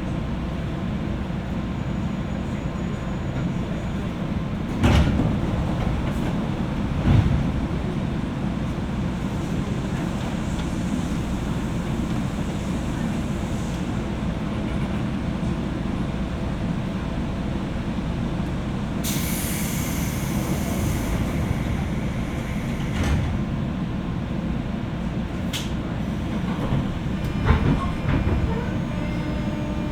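Onboard sound of a JR West 201 series electric train motor car: a steady low rumble with a few sharp knocks. About two-thirds of the way through there is a burst of high hiss lasting a couple of seconds, and near the end a steady low tone comes in.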